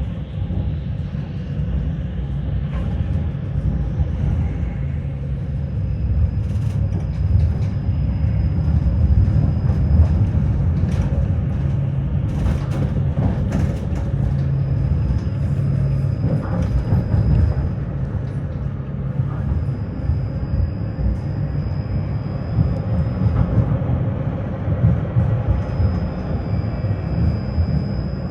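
Tram running between stops, heard from inside the car: a steady low rumble of wheels on rails with scattered clicks and rattles. A thin high whine comes and goes several times.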